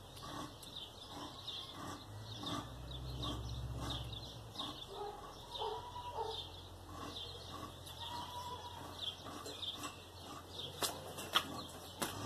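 Birds chirping repeatedly in short, high calls, with a couple of longer single notes in the middle. A low rumble comes in for about two seconds near the start, and a few sharp clicks sound near the end.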